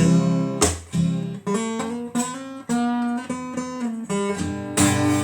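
Acoustic guitar playing between sung lines: a strummed chord about a second in and another near the end, with picked notes ringing in between.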